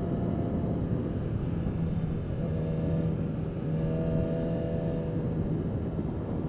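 Kawasaki Ninja ZX-10R's inline-four engine running steadily under way, heard from the rider's position with a constant rush of wind noise.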